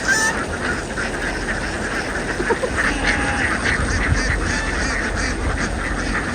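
A large flock of domestic ducks quacking continuously, many calls overlapping into a dense chorus.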